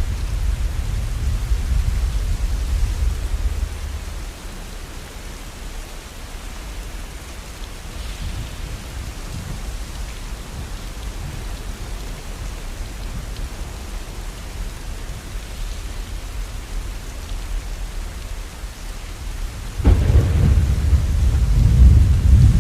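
Steady rain falling, with rolling thunder: a deep rumble dies away about four seconds in, and another rumble breaks in suddenly near the end, louder than the rain.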